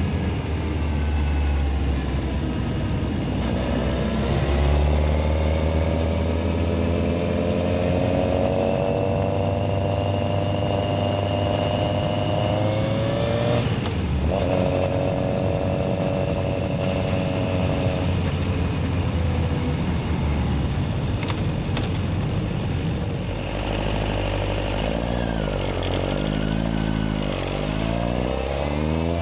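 Yamaha XJR1300's air-cooled inline-four engine pulling away with rising revs, with a short break for a gear change about fourteen seconds in. Near the end the revs rise and fall repeatedly.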